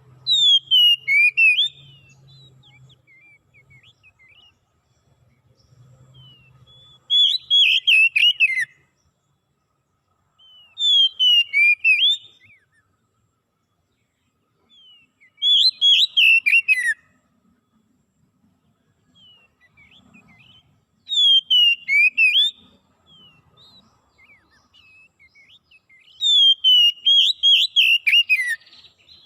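A songbird singing six short whistled phrases, one about every four to five seconds, each a quick run of notes that slide downward in pitch, with quiet pauses between.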